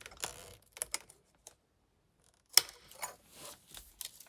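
Small plastic clicks and rattles of the airbag's wiring connectors being unclipped, with a pause and then a sharp click about two and a half seconds in.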